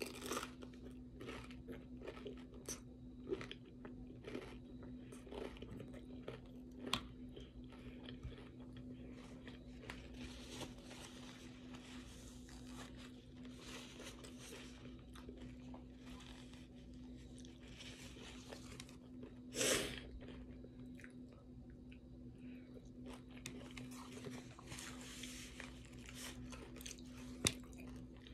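A person chewing and crunching tortilla chips with taco salad: a scattered run of small crunches and bites, over a steady low hum.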